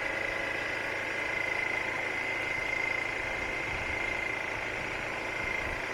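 Motorcycle engine running steadily, with a constant high whine over it.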